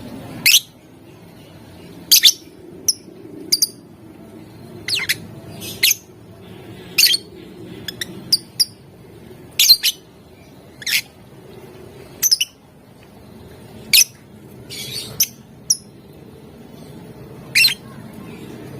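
Lovebird giving short, shrill single chirps and squawks at irregular intervals, about one a second and sometimes two in quick succession, over a low, steady background noise.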